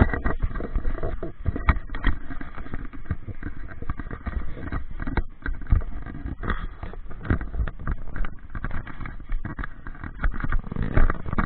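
Motorcycle riding noise on the camera microphone: wind buffeting and crackling over engine and road noise, starting suddenly and running unevenly.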